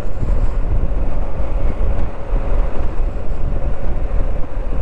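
Riding noise on a Moto Guzzi V85TT at about 40 mph: wind buffeting the microphone in a strong crosswind, over a steady drone from the air-cooled V-twin engine and the tyres on the road.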